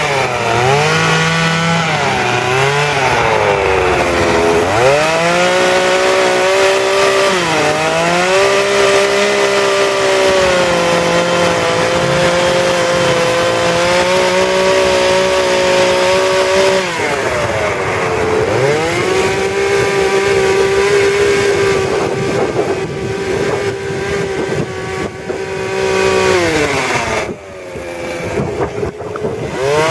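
Chainsaw engine running at high revs while cutting wood. Its pitch sags and recovers several times as the chain bites under load. Near the end it drops back briefly, then revs up again.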